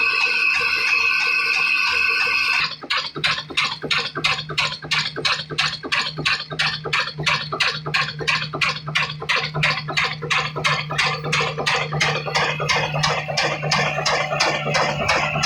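Music for the first few seconds, then a cut to a Kala desi single-cylinder diesel engine running with an even chug of about four beats a second over a steady low hum.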